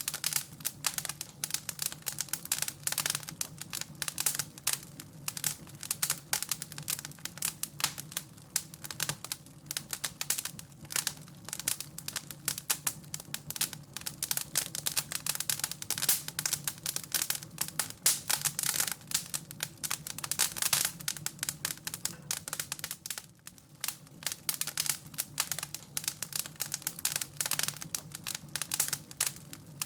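Wood fire in a fireplace crackling and popping: a dense, irregular stream of sharp snaps over a steady low hum.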